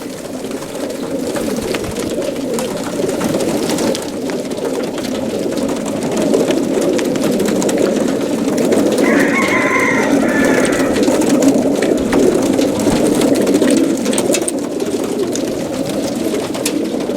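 Hundreds of young racing pigeons cooing together in the crates of a transporter trailer, a dense continuous chorus, with scattered light clicks. A brief higher-pitched sound stands out about nine seconds in.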